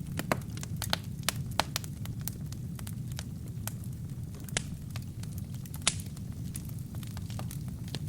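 Wood fire burning in a fireplace: a steady low rumble of flames with irregular sharp crackles and pops from the burning logs, the loudest pop about six seconds in.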